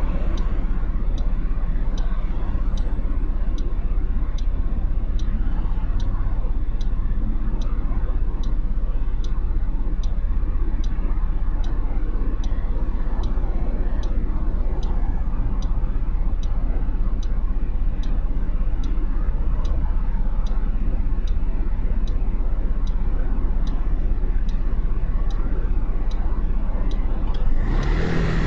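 Motorcycle engine running with its turn-signal indicator ticking steadily, a little under two ticks a second. Near the end the ticking stops and the engine sound changes and grows.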